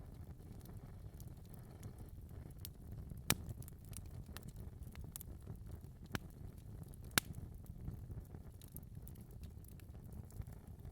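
Wood fire burning in a fireplace: a steady low rumble of flames with scattered small crackles, and two sharp pops about three and seven seconds in.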